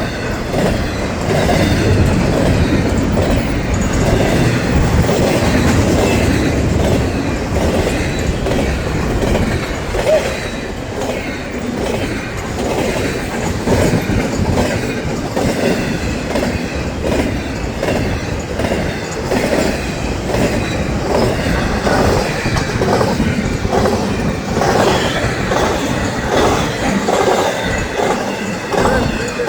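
A train rolling past, its wheels clicking over the rail joints where the continuous welded rail meets the crossing section. The clickety-clack becomes plainly rhythmic in the later part.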